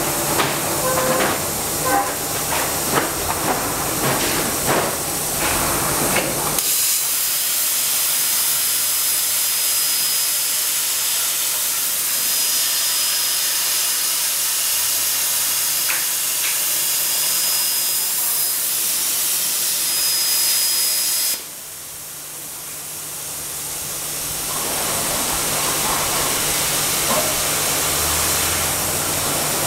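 CNC plasma cutter torch hissing steadily as it cuts, after some clattering and knocks in the first six seconds. About two-thirds through the hiss cuts off suddenly, then builds back up over a few seconds.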